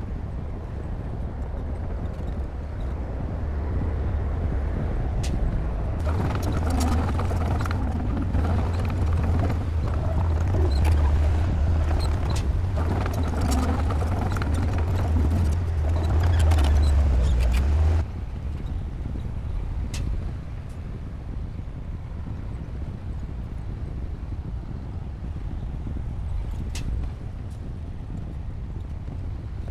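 Heavy diesel engine of a bulldozer running with a deep, steady rumble, with scattered sharp clanks. It grows louder from about six seconds in and drops off abruptly about twelve seconds later.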